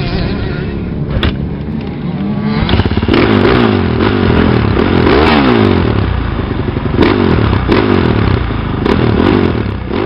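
Dirt bike engine running at idle, then revved up and down repeatedly from about a quarter of the way in.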